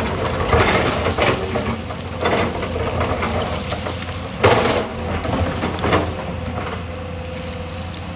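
Hyundai excavator's diesel engine running steadily with a constant whine. Over it come repeated crunching, scraping bursts of the bucket working rock and soil, the loudest about four and a half seconds in.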